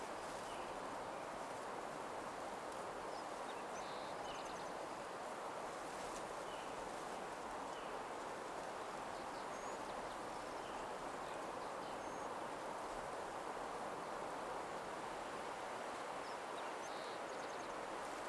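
Steady, soft rushing nature ambience, with faint short bird chirps here and there above it.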